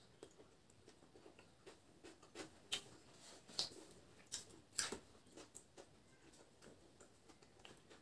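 Faint mouth sounds of someone eating boiled egg and noodles by hand: soft wet chewing with scattered lip-smacking clicks, busiest between about two and five seconds in.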